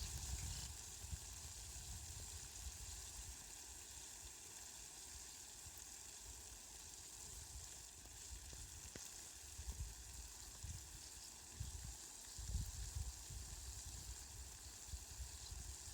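Steady rain falling, an even hiss, with low rumbles that come and go, more often in the second half.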